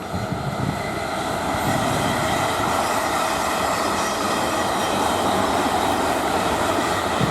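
A pair of South Western Railway Class 444 electric multiple units passing through, a steady rumble and rush of wheels on rail that builds about a second in and then holds.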